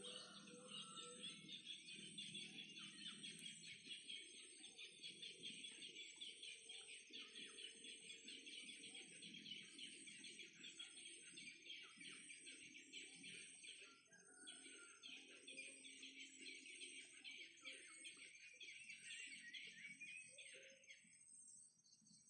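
Faint, dense chirping of many small birds, rapid and continuous, with a short break about fourteen seconds in; it dies away near the end.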